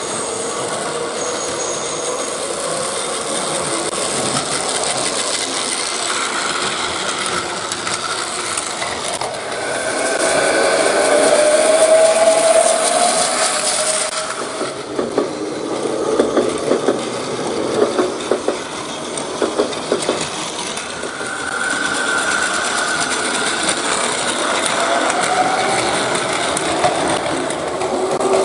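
A train running on track: a steady running noise with a motor whine that rises in pitch twice, and a run of rhythmic clicks over the rail joints in the middle.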